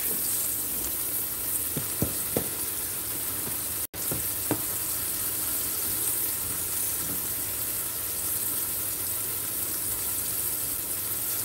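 Flour-dredged pork chops sizzling steadily as they fry in olive oil in a skillet. A few light knocks come about two seconds in and once more near the middle, and all sound cuts out briefly just before four seconds.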